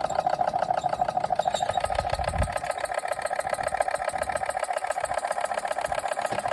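Small model steam engine (a Machinator Steamfire) running under steam, its piston and linkage making a fast, even clattering beat of many strokes a second.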